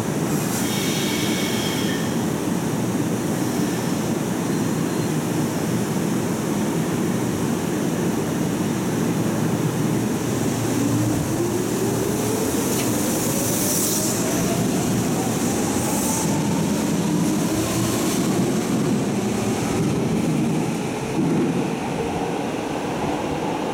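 Hanshin 5001-series electric commuter train pulling out of an underground station. A steady low rumble and hum at first, then from about ten seconds in a motor whine rising in pitch as it accelerates away, with wheel and rail noise as the cars pass.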